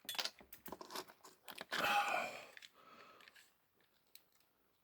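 Irregular crunching, scraping and clicking of a 4 mm drill bit cutting away the head of a diecast toy truck's rivet post, with a denser scrape about two seconds in as the post gives way, then tapering to a few faint ticks.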